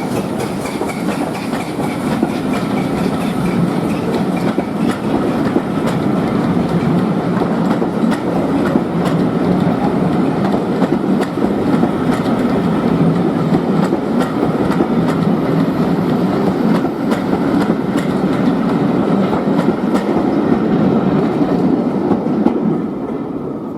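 Railway coaches rolling along the track with a steady rumble and the wheels clicking over rail joints, fading near the end.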